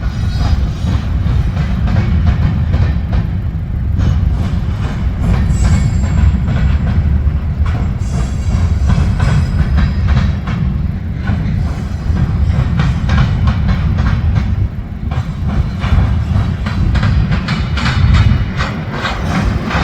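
A train rolling past close by: a loud, steady low rumble with a rapid run of clicks and knocks as the wheels pass over the rail joints.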